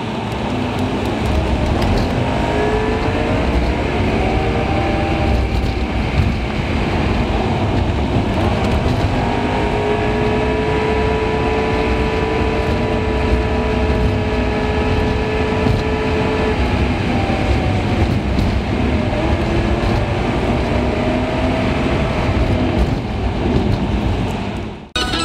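Car engine and road noise, sped up to three times normal speed, with the engine's pitch sliding up and down as the car speeds up and slows.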